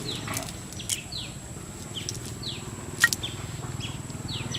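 A bird giving short, high chirps that fall in pitch, repeated about twice a second, over a low background rumble. Two sharp clicks stand out, about one and three seconds in.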